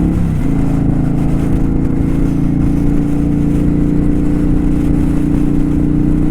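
Kawasaki Vulcan 900 V-twin engine running steadily while riding, heard from on the bike, its note dropping slightly about half a second in and then holding even, with low wind rumble on the microphone.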